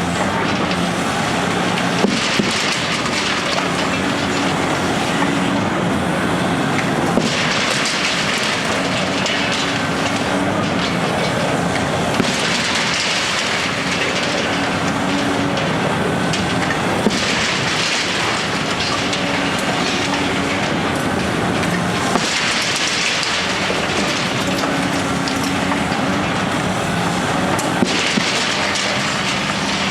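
Demolition machinery running with a steady crackling, rumbling noise. An engine hum rises and fades about every five seconds, trading off with brighter hissing, and there are a few sharp knocks.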